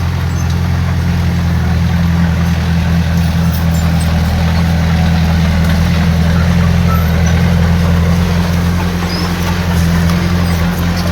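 Diesel engine of heavy earthmoving machinery running steadily at an even speed, a deep, constant drone.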